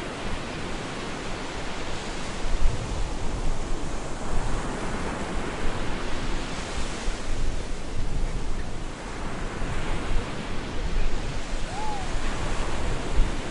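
Stormy surf on a beach: a continuous wash of breaking waves that swells and eases every few seconds, with a low gusty rumble of wind.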